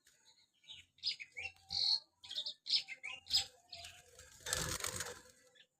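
Caged lincang kuning bird giving a run of short, high chirps and squeaks, with a brief noisy flurry a little past four seconds in.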